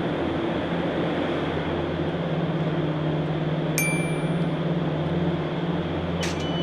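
Transit vehicle running with a steady mechanical hum and drone. About four seconds in, a single ringing metallic ding sounds, and a short click comes near the end.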